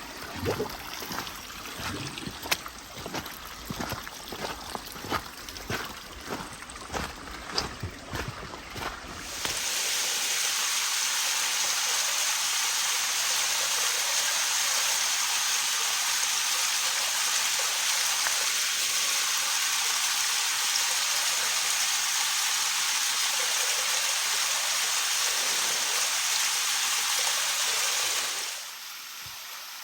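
Irregular knocks and rustles for about the first ten seconds, then a steady rush of water noise that starts and stops abruptly.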